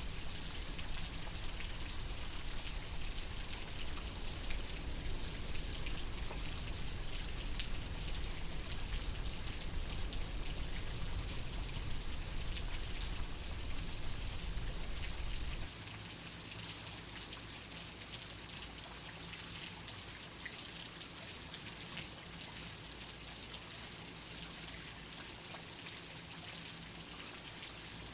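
Steady rain, with a low rumble underneath that cuts off suddenly about halfway through, leaving the rain alone and a little quieter.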